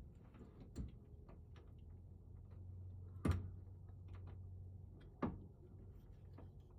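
Scattered clicks and knocks of hand tools and small lock parts being handled on a work surface, the loudest knock about halfway through.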